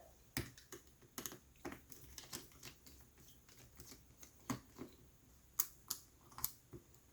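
Faint, irregular small clicks and taps of a screwdriver working small screws out of a laptop's battery. The clicks come one at a time with short pauses, a few louder ones in the second half.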